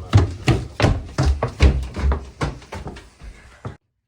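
A rapid, uneven series of thumps and knocks, about three a second, as of bodies and furniture being banged about in a scuffle. The sound cuts off abruptly near the end into dead silence.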